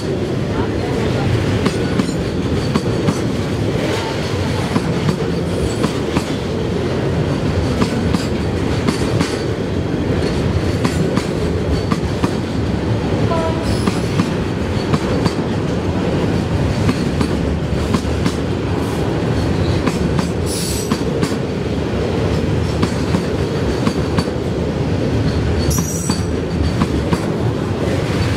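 Container freight train's loaded flatcars rolling past: a steady, loud rumble with wheels clattering over the rail joints, and a couple of brief high wheel squeals in the second half.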